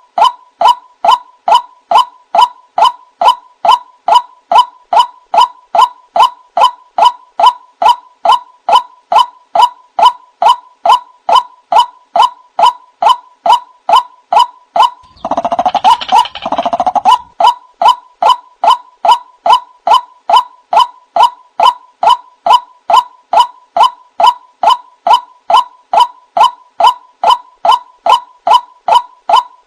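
White-breasted waterhen (ruak-ruak) calls, played back as a hunting lure: a monotonous run of short, honking notes repeated about two to three times a second. About halfway through, a louder, harsher burst lasting about two seconds breaks into the series.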